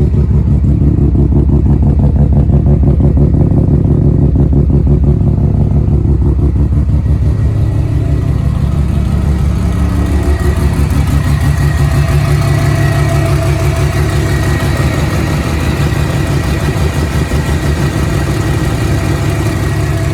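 Semi-peripheral-port rotary engine of a big-turbo Mazda FD RX-7 running at a loud, steady idle, its exhaust beating in rapid pulses. About halfway through, the sound grows brighter.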